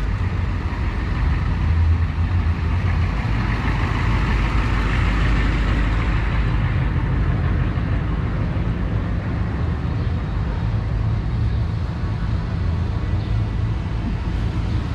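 Car engine running with a steady, deep low rumble, swelling a little in the middle.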